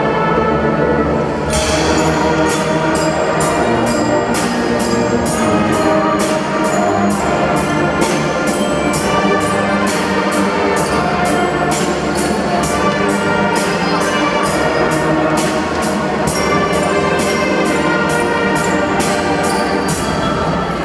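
Drum band playing: a brass melody over percussion. About a second and a half in, a steady beat of sharp drum and cymbal hits comes in, about two a second.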